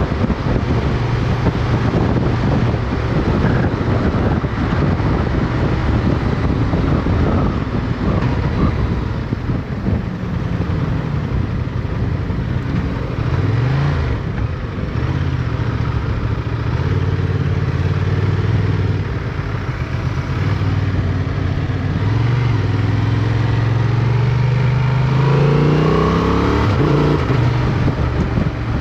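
Motorcycle engine heard from onboard, with heavy wind rush on the microphone. The engine note rises and falls repeatedly through the gears, climbing steadily for a few seconds near the end before dropping away.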